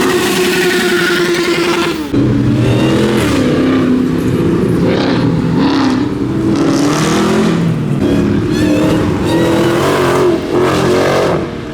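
Modified car engine revving loudly. It holds a steady high note, then changes abruptly about two seconds in to repeated rises and falls in pitch as the throttle is blipped.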